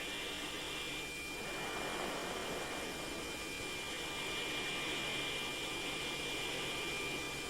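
Steady hiss and drone of the AC-130 gunship's cabin noise carried over the crew intercom, with a thin steady high whine.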